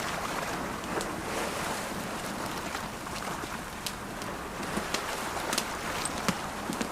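Steady rush of ocean waves washing on the shore, with the sharp irregular pops and crackles of a campfire burning over it.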